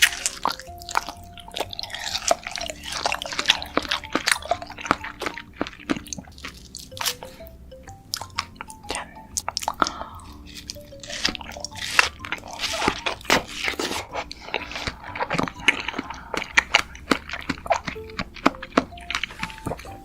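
Close-miked eating of fruit: many crisp, wet crunches and juicy chewing and smacking mouth sounds, over soft background music.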